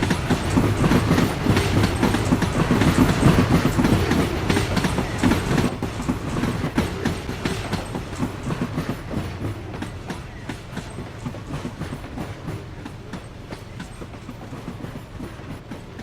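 Passenger train's coaches rolling past, wheels clicking rhythmically on the track. The sound fades steadily as the train moves away.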